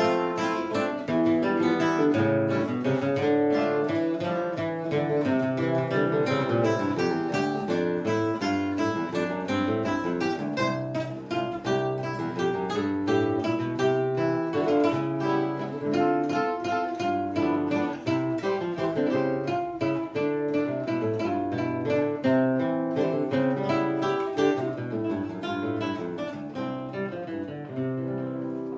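Acoustic guitar playing the instrumental close of a hymn, a steady run of strummed and picked notes that tapers slightly near the end.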